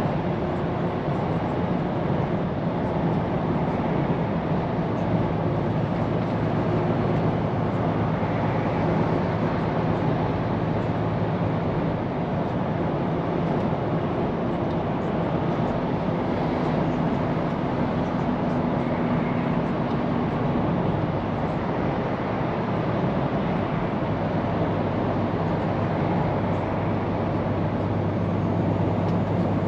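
Scania P410 truck's diesel engine running steadily under way, with a constant hum and tyre and road noise.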